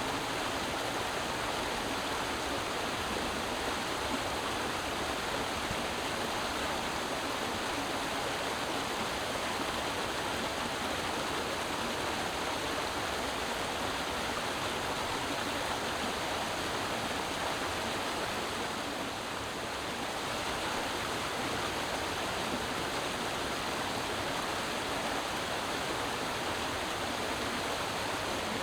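Creek water running and splashing over rocks, a steady rush with a slight dip in loudness about two-thirds of the way through.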